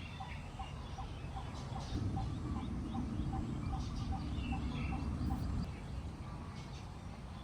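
Farmyard sounds: chickens clucking and small birds chirping over a short note repeated evenly, about two to three times a second. A low rushing noise rises about two seconds in and fades near six seconds.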